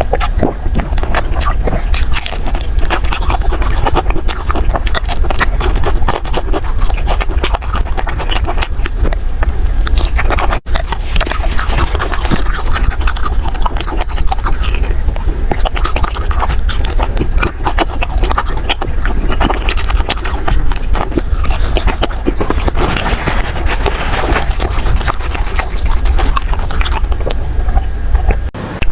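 Close-miked eating sounds: soft desserts being chewed, with dense, irregular wet clicks and smacks over a steady low rumble.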